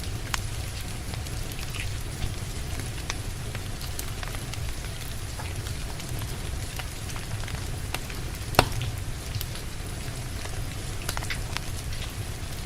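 Steady rain mixed with a wood fire crackling, with scattered small pops and one sharp, loud pop about two-thirds of the way through.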